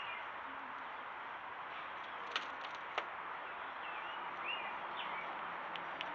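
A few short bird chirps over steady background hiss, with two sharp clicks a little past the middle.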